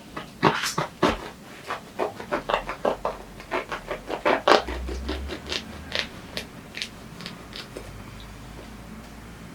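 Food-prep handling sounds in a small kitchen: a quick, irregular run of clicks, taps and scrapes, thinning out after about seven seconds.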